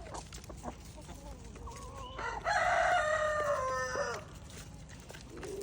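A rooster crowing once in the middle, one drawn-out crow of about two seconds that sags in pitch at the end, with faint scattered ticks around it.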